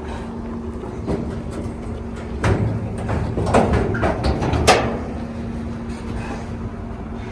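A steady low hum, with a run of sharp knocks and clatters between about two and a half and five seconds in.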